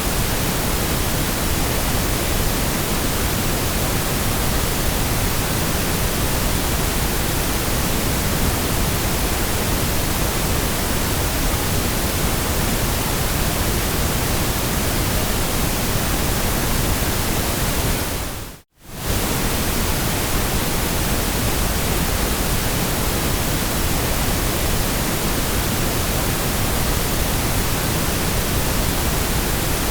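Steady white noise, an even hiss spread across all pitches, that briefly fades out to silence and back in about 19 seconds in.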